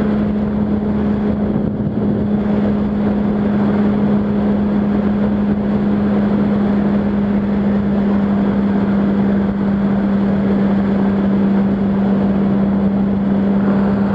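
Yamaha R1's inline-four engine running at a steady cruising speed, one constant engine note with no revving or gear changes, under an even rush of wind and road noise.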